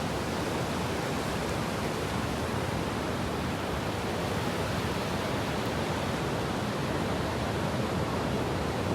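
Steady rush of ocean surf breaking and washing on a sandy beach, an even noise with no distinct wave crests or pauses.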